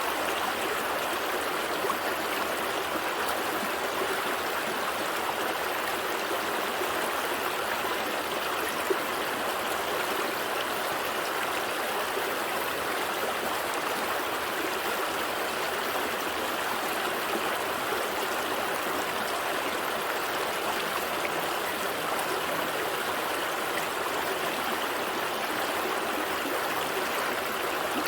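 Gentle stream running over rocks: a steady babble and trickle of flowing water.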